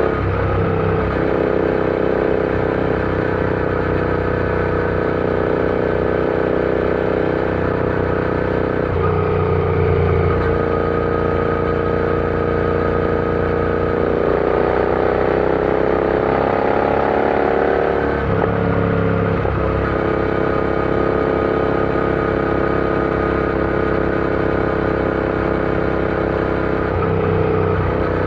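Royal Enfield Interceptor 650 parallel-twin engine running under way. It holds a steady pitch for long stretches, changes note a few times, and rises steadily for about four seconds past the middle before dropping back as it shifts up.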